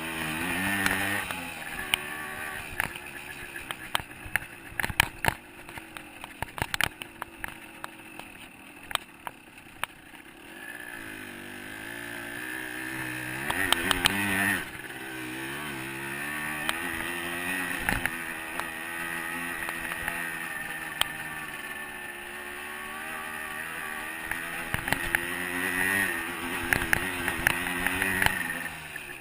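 125cc two-stroke dirt bike engine on a trail ride, its pitch rising and falling with the throttle. It builds for a few seconds in the middle, then drops off suddenly. Many sharp clicks and knocks are scattered throughout.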